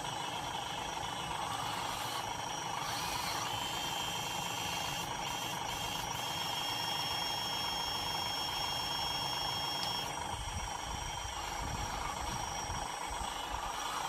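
Hydraulic RC skid loader running: a steady mechanical whine from its electric hydraulic pump and drive, with a higher, thinner whine joining from about three seconds in until about ten seconds in as the hydraulics work.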